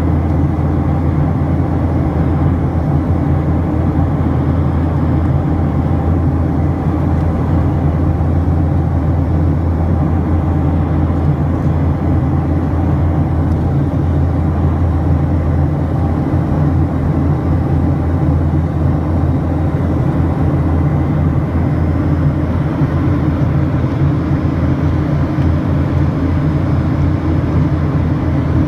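Steady low drone heard inside the cabin of a Boeing 737-800 in flight: its CFM56 engines and airflow over the fuselage, holding constant.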